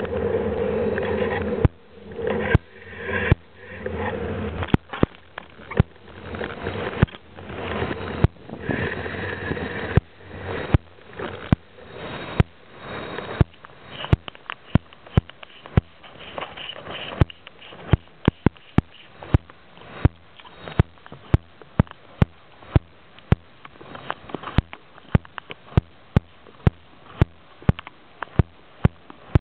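Long train rolling past on the tracks: a rumble with a wheel squeal that fades over the first half, and a regular series of sharp clacks of wheels over rail joints, about one to two a second.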